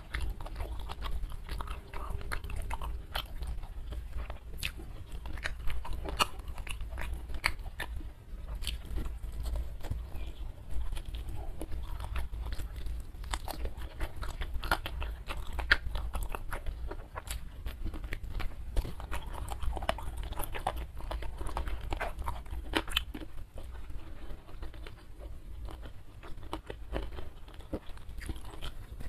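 Close-miked chewing and biting of crispy fried chicken wing, with irregular crunches and clicks several times a second.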